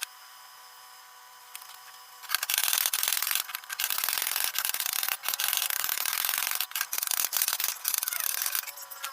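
A power abrasive tool grinding or sanding a car body panel. It spins free with a steady whine for about two seconds, then is pressed onto the metal for about six seconds of loud, rough grinding, then lifts off and whines freely again near the end.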